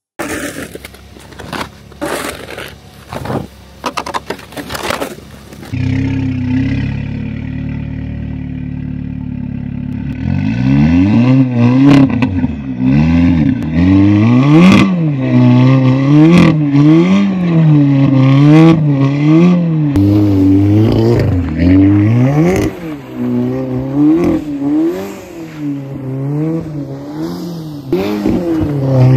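Scraping and crackling for the first few seconds, then the Audi S3's turbocharged four-cylinder engine comes in running steadily. From about ten seconds in it revs up and down over and over as the car is driven hard in snow.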